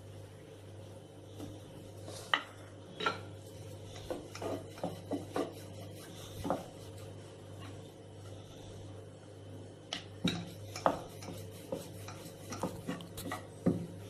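Rolling pin rolling out a small wheat-dough chapati on a board: scattered light knocks and clicks, over a steady low hum.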